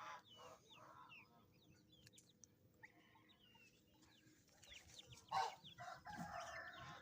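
Chicks peeping faintly in short, high, falling chirps, with a hen clucking more loudly from about five seconds in.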